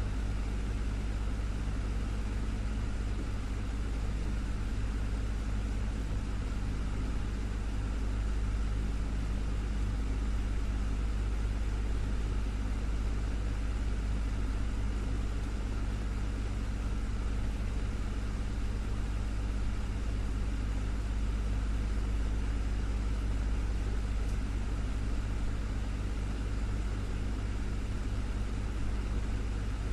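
Desktop fan running steadily: a constant low hum with an even whoosh of moving air.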